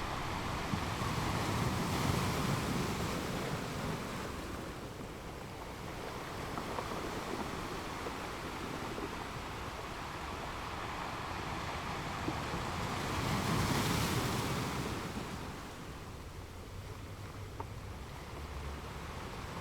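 Ocean waves breaking and washing up a beach. Surf swells up twice, a couple of seconds in and again around fourteen seconds, with the steady hiss and rumble of the sea between.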